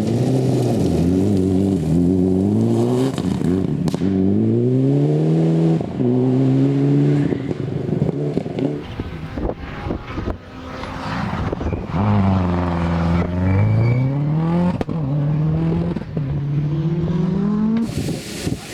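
Rally car engine at full throttle, its pitch climbing and dropping sharply again and again as it shifts up through the gears, with a brief lift off the throttle midway before it pulls hard again.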